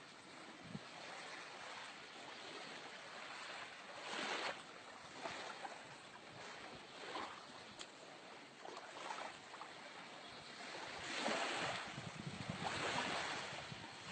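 Sea waves washing in, swelling in surges a few seconds apart, with wind buffeting the microphone.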